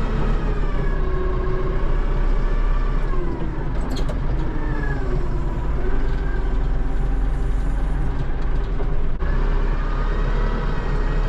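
Kubota loader tractor's diesel engine running steadily under work, its pitch sagging and climbing again about three to six seconds in, with a short high clank near four seconds.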